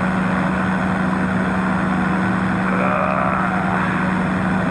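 Powered parachute engine and propeller running steadily in flight, a constant low hum under rushing air.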